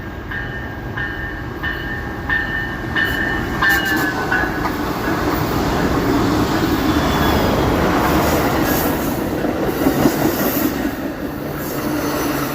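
Amtrak Coast Starlight passenger train passing: a steady rolling rumble of wheels on rail that builds to its loudest about eight to ten seconds in. A ringing tone repeats several times in the first four seconds.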